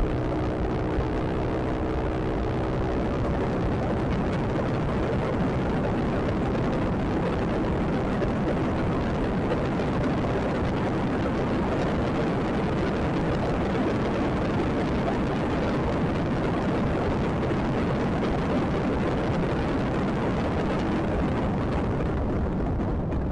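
Steady rush of wind and road noise from a moving motor scooter, heaviest low down. A humming tone fades away in the first few seconds.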